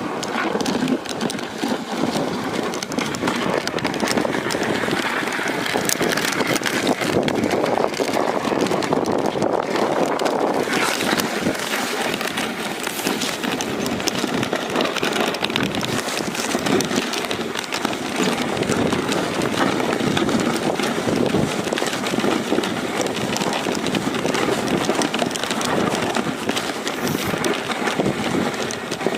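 Dog sled moving over snow at speed: a steady scraping hiss from the runners, with the running dogs' footfalls.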